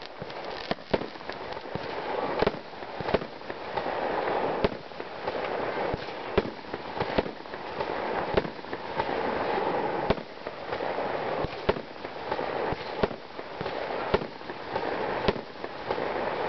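Aerial fireworks going off: an irregular string of sharp bangs and pops, several a second at times, over a rushing hiss that swells and fades several times.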